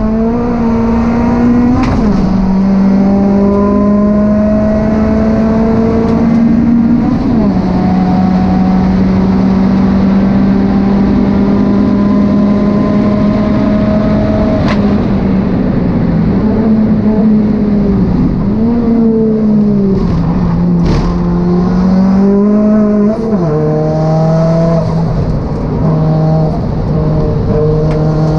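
Renault Megane RS R26's turbocharged four-cylinder engine, heard from inside the stripped cabin while lapping a track under hard acceleration. The note climbs slowly through each gear and drops suddenly at gear changes about 2, 7 and 23 seconds in. Between about 18 and 21 seconds the note dips and rises again, with a couple of sharp clicks.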